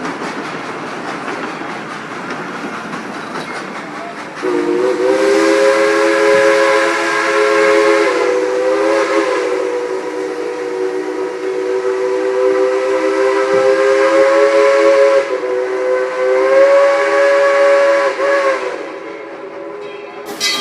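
Steam locomotive's chime whistle blowing one long chord of several notes, starting about four seconds in and held for some fourteen seconds, briefly dipping near the end before it trails off. Before the whistle, the train is heard rolling with a steady hiss.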